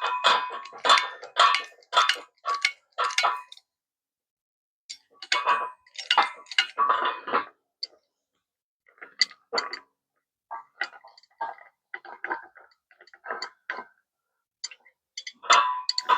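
Irregular metallic clicks and clinks from hand tools and steel parts being handled, some with a short ring, in scattered runs with two silent gaps.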